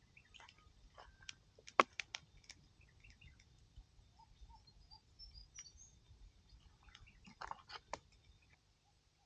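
Faint bird chirps in the bush, with a few sharp clicks and knocks: a cluster about two seconds in and another near the end.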